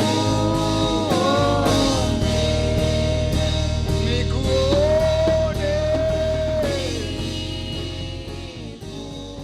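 Church praise band playing the closing bars of a worship song, with a sliding, held vocal or lead line over steady chords, bass and drums; the music fades away in the last couple of seconds.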